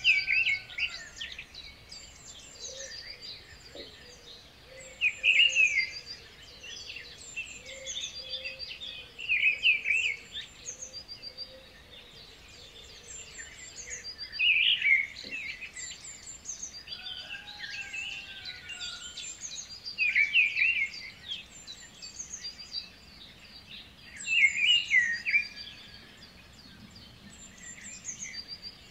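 Songbirds chirping and singing, with a louder burst of song about every five seconds and thin high chirps in between.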